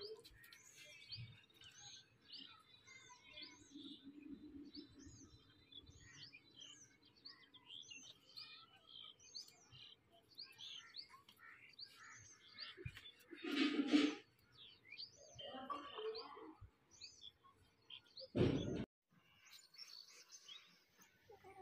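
Small birds chirping over and over, short high calls in quick succession. Two brief, louder noises break in, about two-thirds of the way through and again near the end.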